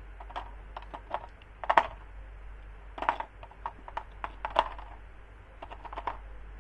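Irregular light clicks and knocks of hard objects being handled, coming in small clusters, with the sharpest knocks about two seconds in and again about four and a half seconds in.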